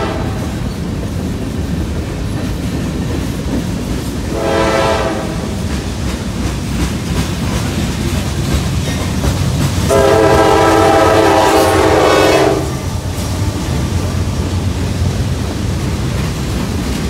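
Freight cars rolling past close by with a steady rumble and wheel clatter. A diesel locomotive horn sounds a short blast about four seconds in, then a longer blast of about two and a half seconds near the middle, the loudest sound here.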